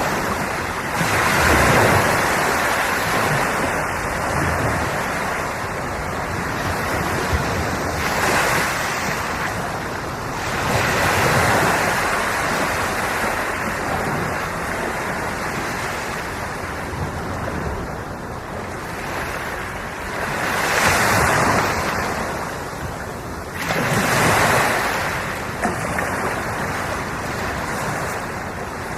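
Ocean waves breaking and washing on the shore in a steady hiss of surf, with a louder wave rushing in every few seconds, five times in all. Some wind on the microphone.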